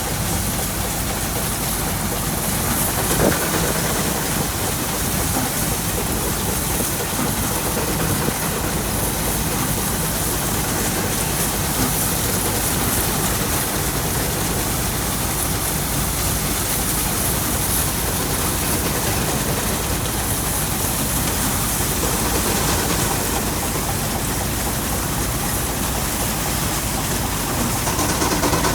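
Threshing machine running steadily with its tractor, a continuous rushing noise with a low hum underneath.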